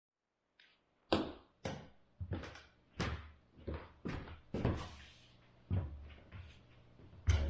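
A series of irregular knocks and thuds, about one every half second to second, starting about a second in, like things being handled or doors and cupboards being worked indoors.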